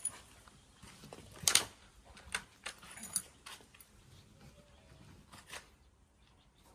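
Bean pods and leaves rustling and crackling as they are handled and packed into a clay pot, in a few short separate bursts, the loudest about a second and a half in.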